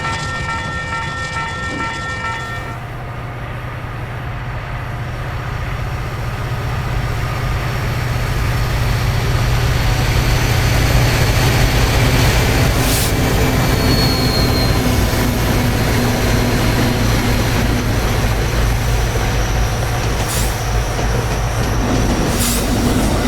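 A train running, with a steady low hum under rolling rumble that grows louder about eight seconds in. A held chord of tones cuts off about three seconds in, and a brief high squeal comes near the middle.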